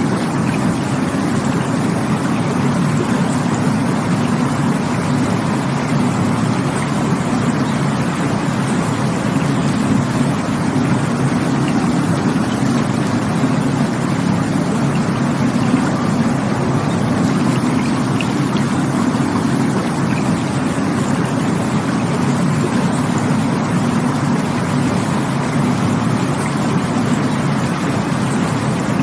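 Rushing water running as a steady, unbroken rush, heaviest in the low range.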